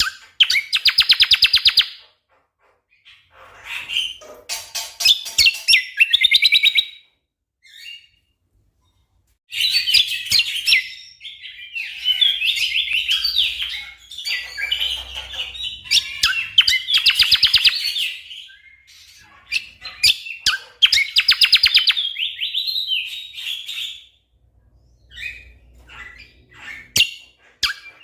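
A cucak kombo (kecial kombok) songbird singing in bouts of rapid-fire repeated chattering notes, each burst lasting one to three seconds, with short pauses between.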